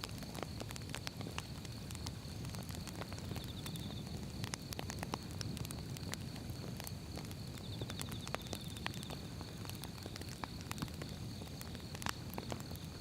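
Wood fire burning in a fireplace, crackling with many irregular sharp pops and snaps over a steady low rumble of flames.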